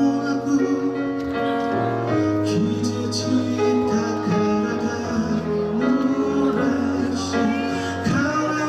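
Live band playing a slow rock ballad: sustained chords that change every second or so, with a melody line over them.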